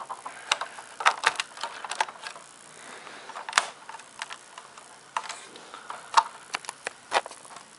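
LEGO plastic bricks being handled and pressed together, a series of irregular sharp clicks and small rattles.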